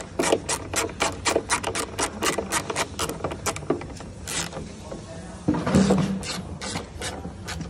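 Hand work on a truck headlight unit: a quick run of sharp clicks, about four or five a second, then a louder scrape and rub about two-thirds of the way in.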